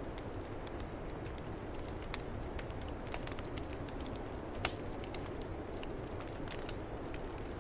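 Fireplace wood fire crackling with frequent sharp pops, one louder pop a little past halfway, over a steady low rush of snowstorm wind.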